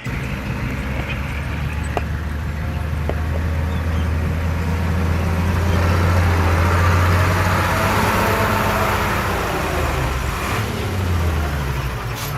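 Heavy diesel engine of earthmoving machinery running under load with a deep, steady drone. It grows louder through the middle and eases off toward the end.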